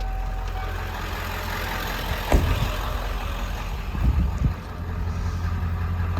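A 1995 Ford E350's 7.3-litre Power Stroke V8 turbo diesel idling with a steady low rumble. A sharp knock comes about two seconds in, and a few dull thumps follow around four seconds in.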